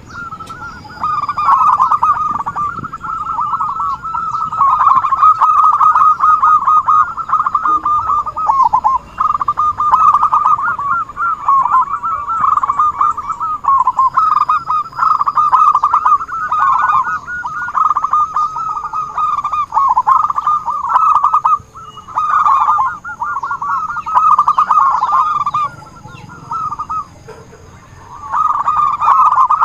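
Zebra doves (perkutut) cooing in long runs of rapid staccato notes, almost without a break, with short pauses about two-thirds of the way through and near the end.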